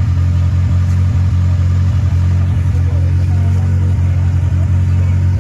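Suzuki Samurai engine running at a steady speed, a loud, even low hum with no rise or fall in pitch.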